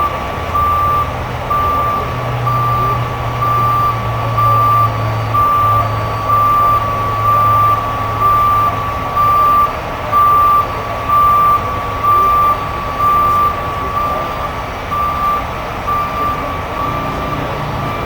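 A heavy truck's back-up alarm beeping steadily, about once a second, over a diesel engine running that eases back about halfway through.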